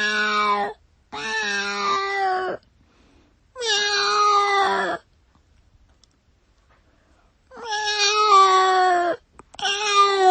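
A cat meowing repeatedly: about five long meows, each lasting a second or more and mostly dropping a little in pitch at the end, with a pause of a couple of seconds midway.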